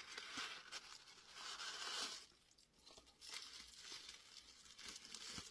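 Packaging of a small cardboard gift box rustling and crinkling as it is opened and the candle unwrapped, with a louder spell about a second and a half in, a short lull, then more handling.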